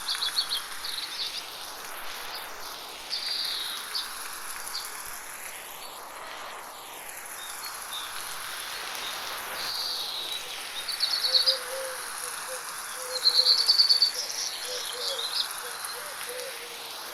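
Forest birds chirping in short bursts of quick notes, several times, over the steady hiss of light rain, with a fainter low call near the end. The sound is processed as 8D audio, so it slowly swirls around the listener.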